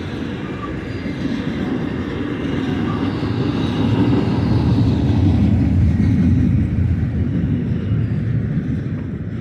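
Double-stack container train rolling past, its wheels rumbling on the rails. The rumble swells about four to six seconds in and then eases off.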